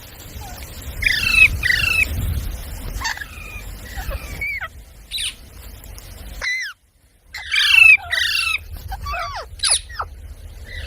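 Pet parrot squawking: repeated short, harsh calls that fall in pitch, often in pairs, over a low rumble. The sound drops out briefly about two-thirds of the way through, then the calls go on.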